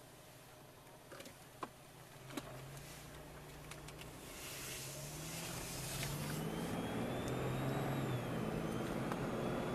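A few sharp clicks and knocks, then a car pulling away and accelerating, its engine note rising and getting louder through the second half, with a thin high whine running along with it near the end.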